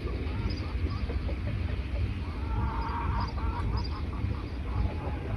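Birds calling: a run of rapid, chattering calls about two and a half seconds in and again near the end, with faint high chirps, over a steady low rumble.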